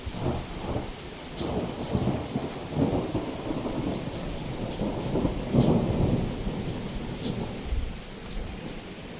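Thunder rolling in several low rumbles, loudest about halfway through and fading near the end, over steady heavy rain. A few sharp high ticks stand out from the rain.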